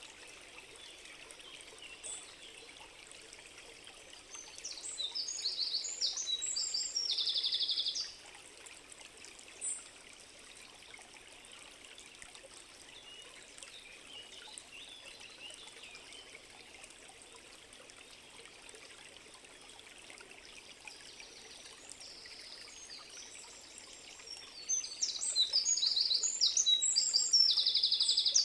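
A songbird sings two phrases, about four seconds and twenty-four seconds in, each a quick run of varied notes ending in a fast, even trill. Under it runs a steady rush of flowing stream water.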